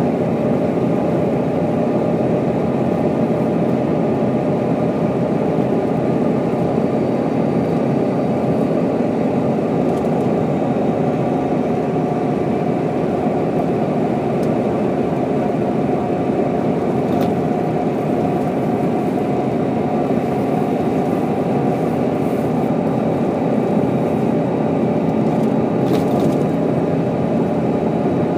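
Mercedes-Benz O407 bus's diesel engine and drivetrain running steadily while driving overland, heard from inside the passenger compartment, with a faint click or two.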